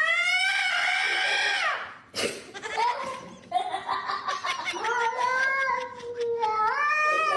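A cat yowling (caterwauling) in long drawn-out calls that rise and then sag in pitch. A sharp knock comes after the first call, about two seconds in, and another rising call starts near the end.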